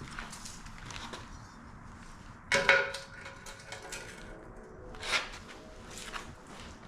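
Steel parts clanking together: one loud clank that rings on briefly, then a shorter knock a couple of seconds later.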